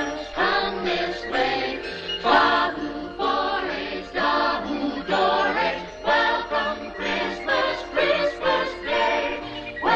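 A choir singing a Christmas song with instrumental backing, moving from note to note about every half second.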